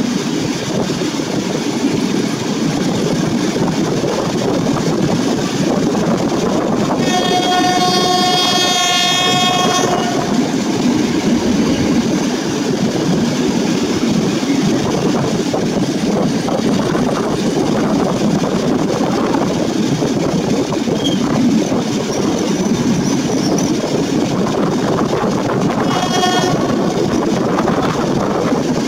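Passenger train running with steady wheel-on-rail noise heard from a carriage window. The SM42 diesel locomotive's horn gives one long blast of about three seconds about seven seconds in, the Rp1 'attention' warning signal, and a short blast near the end.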